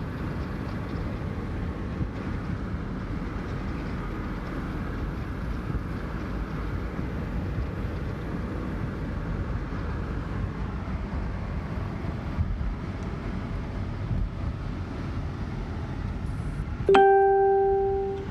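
Steady low rumble of a vehicle on the move, heard from inside. Near the end a single loud electronic ding rings out and fades within about a second.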